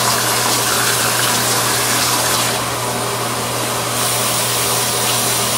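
Warm tap water running steadily, a constant even rush.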